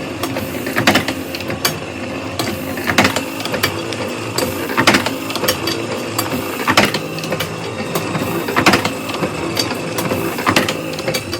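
Letterpress printing press running, a steady mechanical clatter with a sharp clack about every two seconds as the press cycles.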